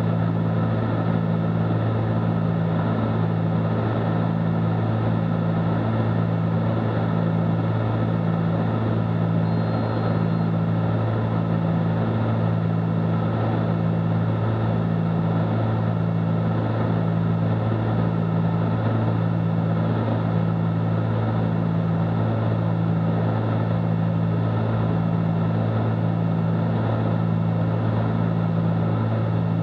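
Cessna 310Q's twin piston engines and propellers droning steadily in cruise descent, heard in the cockpit. The drone throbs evenly about once a second, the beat typical of two propellers turning slightly out of sync.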